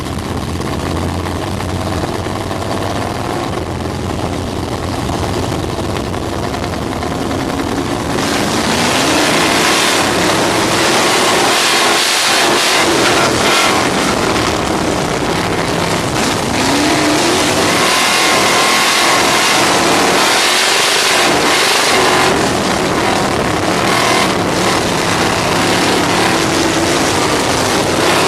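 A 305 sprint car's V8 engine heard from on board the car, running at lower revs for about the first eight seconds, then getting louder, its pitch rising and falling again and again as the throttle is worked.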